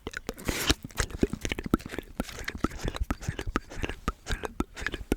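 Pokémon trading cards being handled and flipped through: a quick, irregular run of sharp clicks and taps, with a brief sliding rustle about half a second in.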